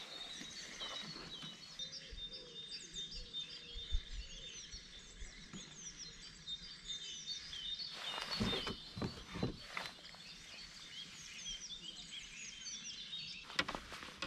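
Songbirds singing: many short chirps and whistles, with a thin high note held on and off. A few dull knocks come about eight to nine seconds in and again near the end.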